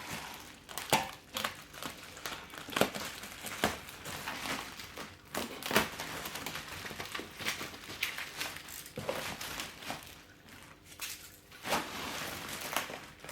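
Packing foam and wrapping crinkling and rustling as an exhaust part is unwrapped by hand, with irregular sharp crackles throughout.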